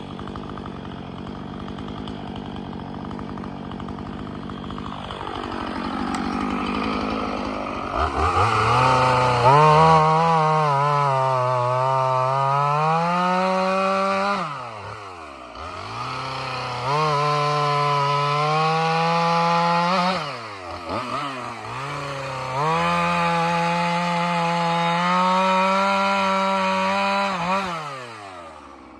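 Chainsaw running at a lower speed, then revved to full throttle three times, cutting firewood rounds from a log. The pitch sags and recovers under the load of each cut, and drops back to a lower speed near the end.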